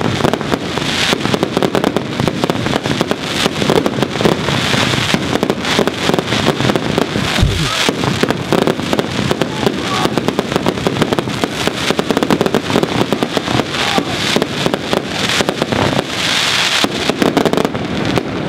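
Fireworks finale barrage: a dense, unbroken run of rapid bangs.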